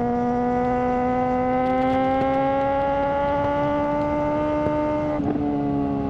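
Suzuki GSR600 inline-four running through a GPR Ghost aftermarket exhaust, its pitch rising slowly under light, steady acceleration. About five seconds in, an upshift briefly breaks the sound and drops the pitch.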